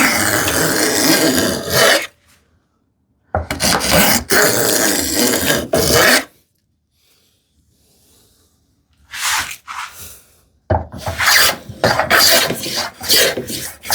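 A hand plane taking shavings off a wooden strip, working it down to the gauge line. There are three long strokes and a shorter, fainter one, with a short pause between strokes.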